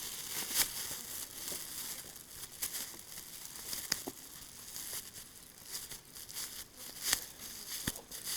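Plastic bags crinkling and rustling as they are handled, with scattered sharp clicks.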